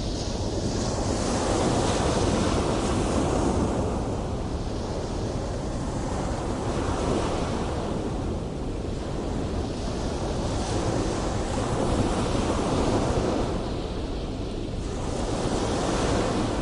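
Large ocean waves breaking and washing in a continuous roar of surf, swelling and easing every few seconds, with wind noise on the microphone.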